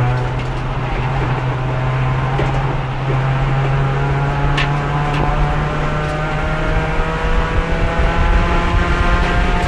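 Race car engine heard onboard, pulling hard in fourth gear with the revs climbing slowly and steadily. The car is stuck in fourth because its transmission is failing, with no third gear and no shifting at speed. A couple of sharp ticks sound about halfway through.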